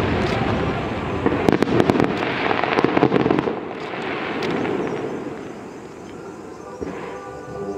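Fireworks going off: a dense barrage of sharp crackles and booms for the first three and a half seconds, then fading to a dwindling rumble and scattered crackle. Music begins faintly near the end.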